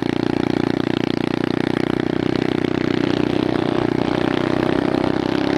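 Dirt bike's single-cylinder engine running at steady revs close to the microphone, its pitch easing slightly lower near the end.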